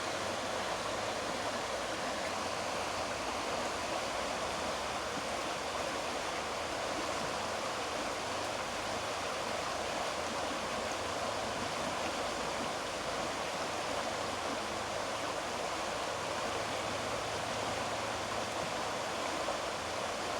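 Rushing water of a mountain stream, a steady unbroken wash.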